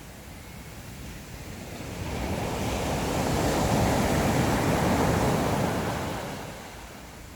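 Sea waves on the shore: one wave builds about two seconds in, rushes loudest through the middle, and washes away near the end.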